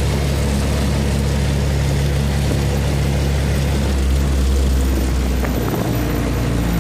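Predator 212 single-cylinder engine in a small pickup, running steadily while the truck is driven, under a heavy even hiss of road and wind noise. The engine is held by its governor at top speed because the truck is geared too low.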